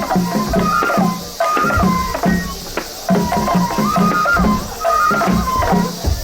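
Japanese festival music accompanying a lion dance: a bamboo flute playing a stepping melody over steady, repeated taiko drum beats.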